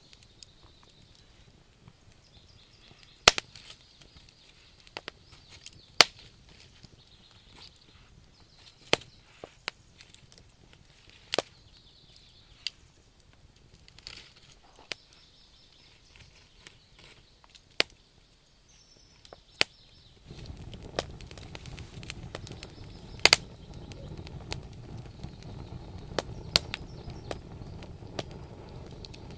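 Wood campfire crackling: irregular sharp pops of burning logs, a few seconds apart, over a faint hiss. About two-thirds of the way through, a steady low rumble of the flames sets in under the pops.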